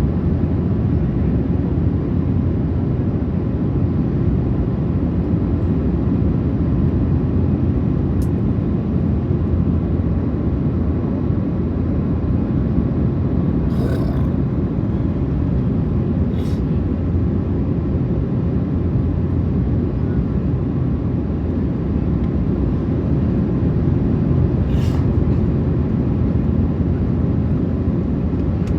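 Steady low cabin rumble of an Airbus A380 airliner, with a few faint brief ticks partway through.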